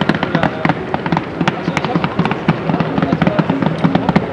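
A fireworks display crackling: a dense, rapid run of sharp pops and cracks with no pause.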